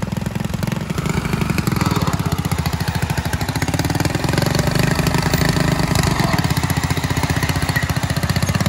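Riding-mower engine on a rock-crawling mower, running steadily with a rapid, even firing beat.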